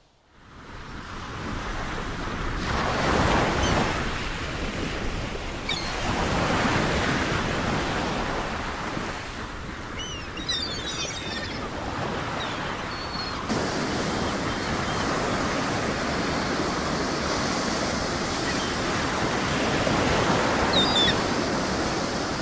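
Caspian Sea surf breaking on the beach, a steady rushing wash that swells and eases every few seconds.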